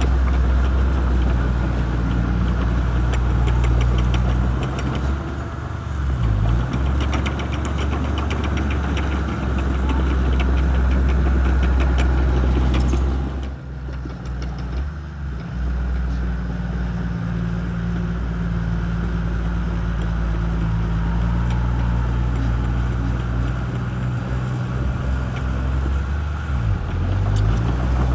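Shantui bulldozer's diesel engine running under varying load, its low steady note shifting in pitch as the load changes, with a brief drop in loudness about halfway through.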